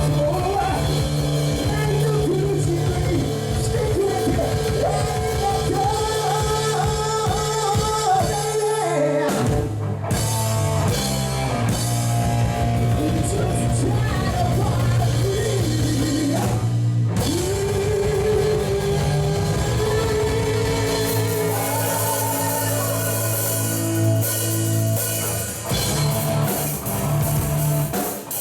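Rock song with sung vocals over drums, bass and electric guitar, with two short breaks in the music.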